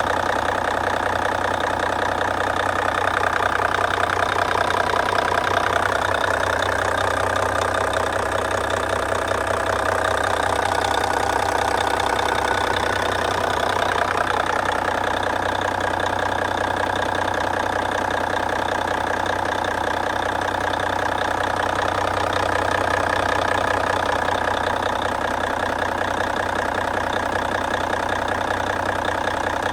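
Dump truck engine idling steadily with an even, rapid pulse.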